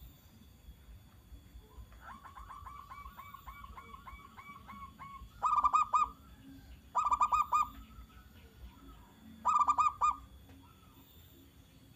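Zebra dove (perkutut) cooing: a softer run of about a dozen quick, evenly spaced coos, then three loud short bursts of rapid cooing notes a second or two apart.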